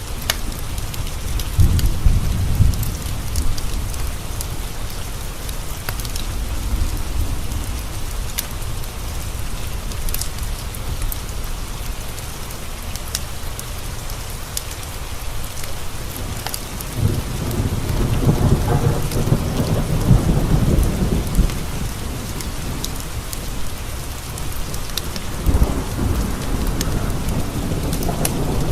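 Steady rain with thunder rumbling: briefly near the start, in a long roll about two-thirds of the way through, and again near the end.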